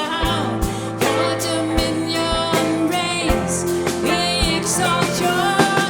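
Live band playing a gospel-rock song: the singer holds long notes with vibrato over a sustained bass line and a steady drum beat.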